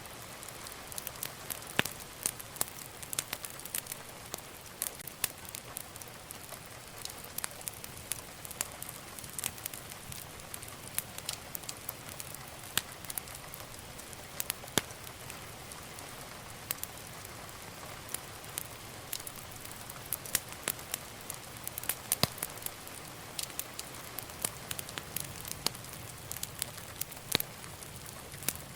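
Wood fire burning in a fireplace: a steady soft hiss with frequent irregular crackles and pops of burning logs.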